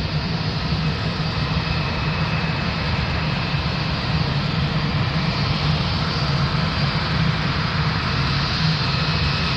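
Steady, loud engine noise: a low hum under a broad, even rush that neither rises nor falls.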